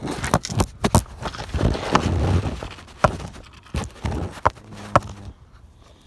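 Irregular knocks and clicks with a short scraping stretch about two seconds in, as a cut and bent sheet-metal repair piece is handled.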